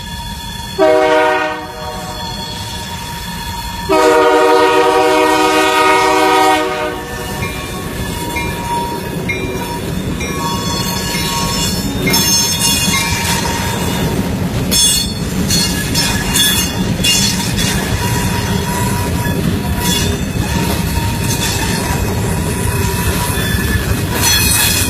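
Finger Lakes Railway freight train's locomotive horn sounding a short blast about a second in, then a long blast from about four to seven seconds. After that the train passes with a steady engine rumble and wheels clattering and squealing on the rails.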